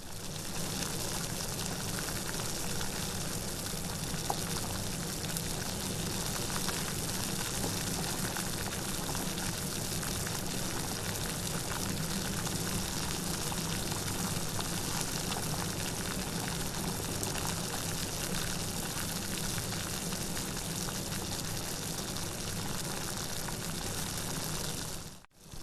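Steady, even rainfall, with a dense hiss of falling drops. Near the end the sound drops out for a split second and resumes, the seam where the rain recording loops.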